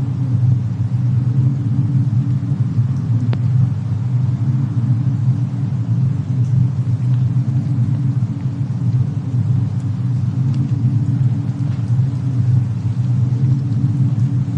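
Fireplace and snowstorm ambience: a steady deep rumble with a few faint, sparse fire crackles.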